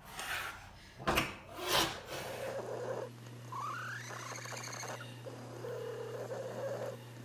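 Two short rushing noises about a second in, then a steady low hum with a cat's quiet rising meows and a lower drawn-out call over it.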